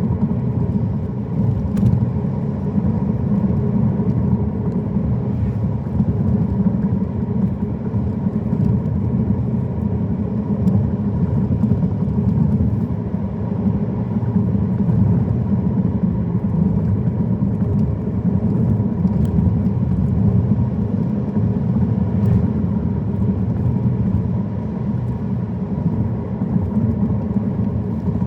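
Car driving at a steady pace: continuous low road and engine noise with a faint steady high tone and a few light ticks.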